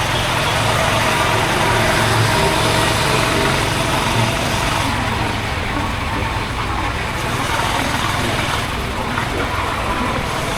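Honda H'Ness CB350's air-cooled single-cylinder engine and exhaust running steadily under way, mixed with a constant rush of air and road noise.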